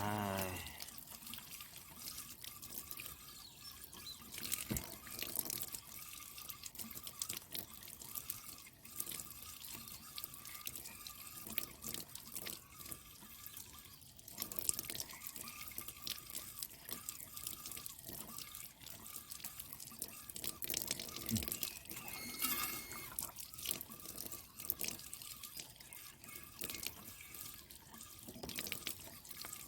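Water running and dripping, with irregular small splashes and clicks, as water-tank filter sheets are washed.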